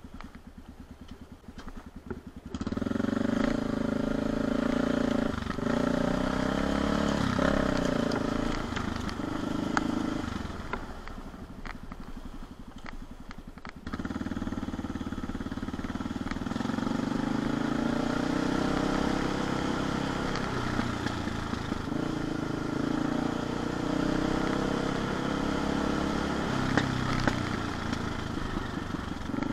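CCM 644 R30 supermoto's Suzuki-based 644 cc single-cylinder four-stroke engine pulling the bike along at low speed. The engine is quiet at first, with the throttle opening about two and a half seconds in. It eases off around ten seconds, then pulls again from about fourteen seconds with the pitch rising and falling as speed changes.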